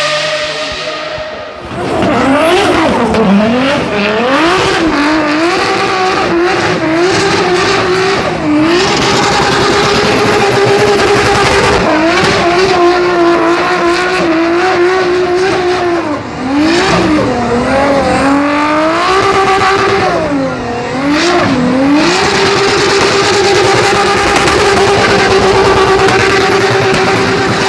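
Racing car engine driven hard, held at high revs for long stretches with repeated sharp dips and swoops in pitch as the throttle is lifted and reapplied.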